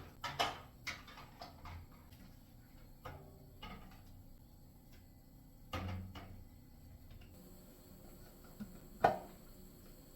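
Household objects being handled: a series of light knocks, clicks and clatters, with one sharper, louder knock about nine seconds in.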